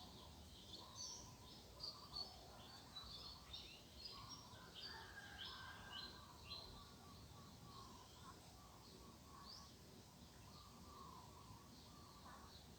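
Faint chorus of small birds chirping and calling, several at once, with quick high chirps coming thickest in the first two-thirds, over a steady outdoor hiss.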